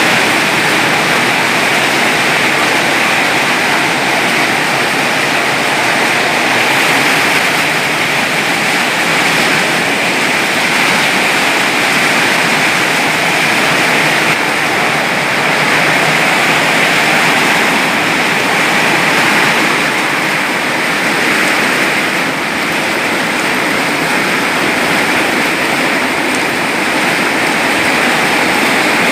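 Heavy downpour of rain, a loud, steady hiss that barely varies throughout.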